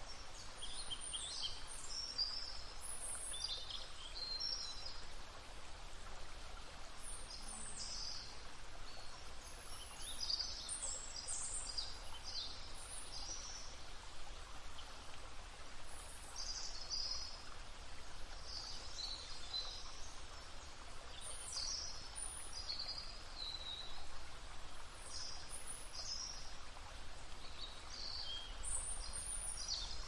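Small birds chirping and twittering in short, high, scattered calls over a steady outdoor hiss.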